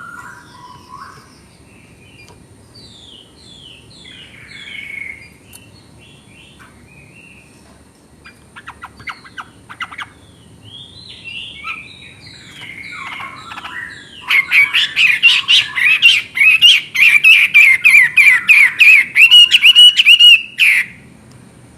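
Chinese hwamei singing: a string of varied whistled phrases, then, about two-thirds of the way in, a loud fast run of repeated notes that stops shortly before the end.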